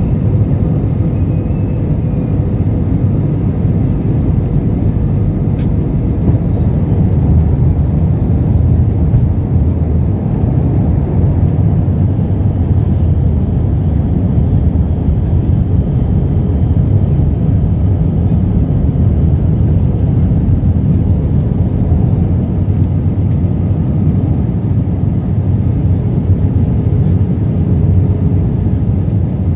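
Steady, loud rumble of engine and airflow noise heard inside the cabin of an Airbus A320 airliner, with a faint steady hum above it and a single small click about six seconds in.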